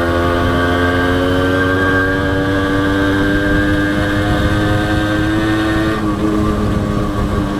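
Honda H100S motorcycle's two-stroke single-cylinder engine running at a steady cruise over a low rumble, its note rising slightly over the first two seconds and dropping a little about six seconds in.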